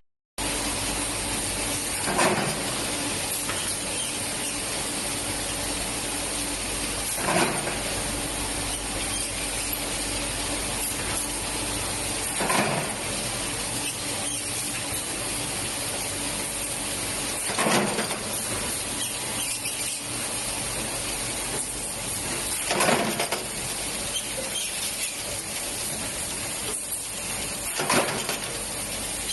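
Glass-lid production machinery running with a steady hiss and hum, and a brief, louder sound about every five seconds as it repeats its work cycle.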